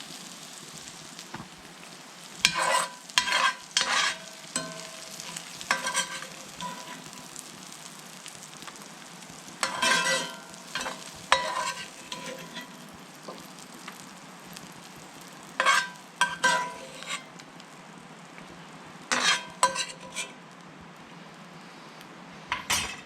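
Onions and vegetables sizzling in a frying pan, with a utensil stirring and scraping against the pan in short bursts every few seconds.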